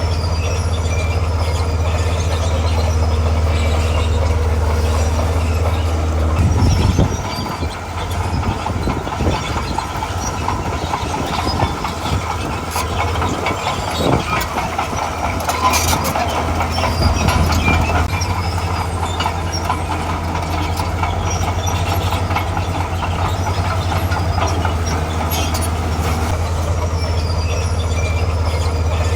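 Diesel engine of a tracked earthmoving machine working, with a steady low hum. About six seconds in the note turns rougher and more uneven for some ten seconds as the machine works harder, then settles back to a steady run.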